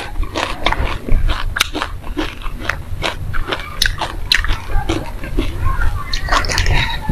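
Close-miked crunching and chewing of a mouthful of dry black and white sesame seeds: a fast, irregular run of small crisp crackles.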